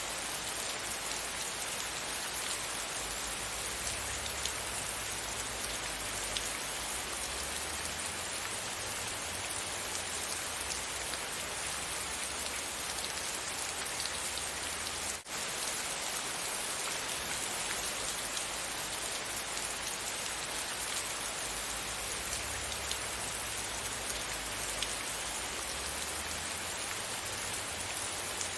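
Steady rain falling on a surface, a dense even patter with scattered individual drops ticking through it. The sound dips out briefly about halfway through.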